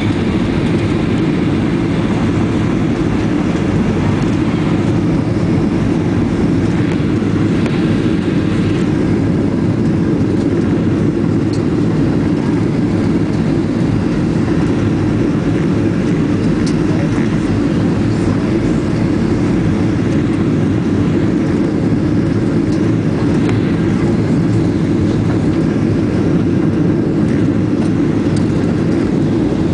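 Cabin noise inside a Boeing 737-700 in flight on approach: a steady, loud low rumble of its CFM56 engines and the air rushing past the fuselage.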